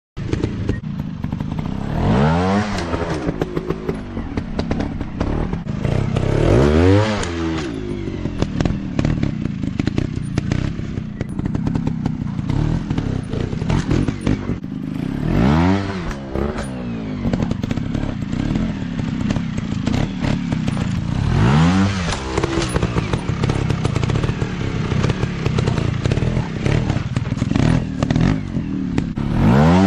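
Dirt bike engine revving up and easing off again and again, its pitch rising and falling about five times, with clicks and clatter throughout.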